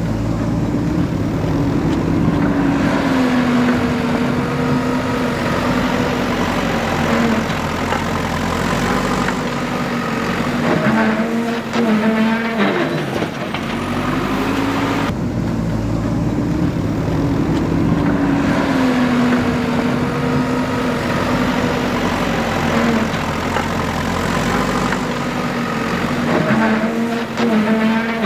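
Diesel engine of a JCB 3DX backhoe loader running under load, its pitch rising and falling several times as the revs change, with a sharp drop in revs about twelve seconds in and again near the end.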